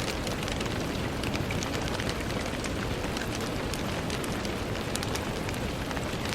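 Steady rain falling on a window: an even hiss full of small, quick drop ticks.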